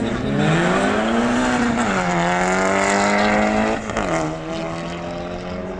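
Car engines accelerating hard from a standing start in a side-by-side drag race. The engine note climbs and drops at upshifts about two seconds in and again near four seconds in.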